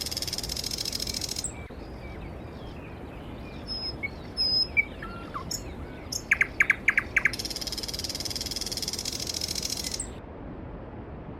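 Songbird singing a phrase of a few quick sharp notes that runs into a long buzzing trill, ending about a second and a half in and given again from about six seconds to ten seconds, with other small birds chirping faintly in between. A mountain stream flows steadily underneath.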